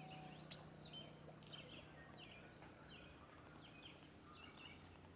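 Faint background birdsong: short chirping calls repeating every half second or so over a steady high tone, with one sharp click about half a second in.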